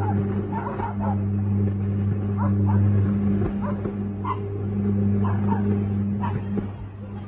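Several dogs barking and yipping at a distance, in short scattered calls, over a loud steady low hum. The hum weakens near the end.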